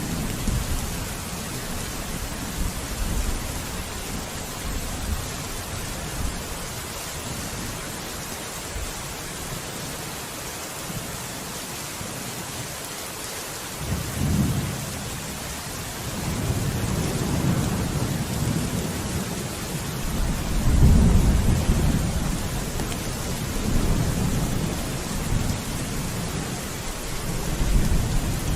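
Steady heavy rain with rolling thunder: a brief low rumble about halfway through, then longer rumbles, the loudest roughly three quarters of the way through.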